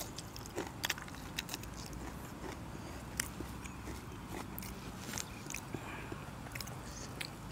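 Close-up eating sounds: people biting into and chewing crisp fresh vegetables, with scattered short crunches and wet mouth clicks spaced irregularly, a few every second.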